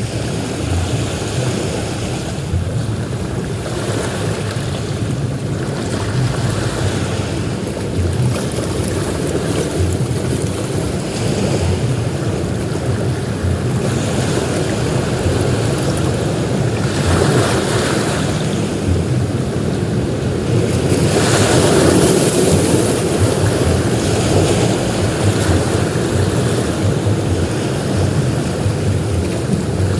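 Ocean surf breaking and washing on a beach: a continuous rush of waves that swells with each breaker, loudest a little past the middle.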